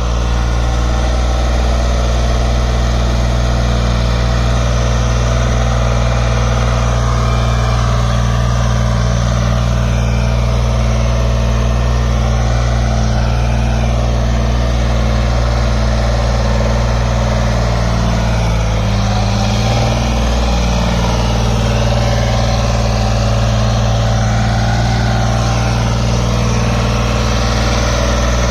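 Sonalika DI 35 tractor's diesel engine running steadily while working with a fully loaded trolley, with a brief dip and recovery in the engine note about two-thirds of the way through.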